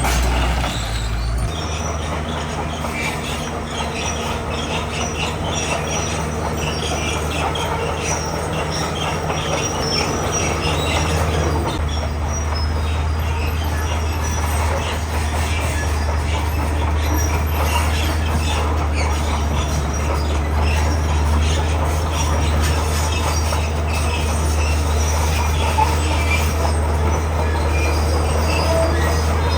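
Komatsu bulldozer working, its diesel engine running steadily under a dense metallic clatter and squeal from the steel crawler tracks. The engine note shifts about a third of the way through.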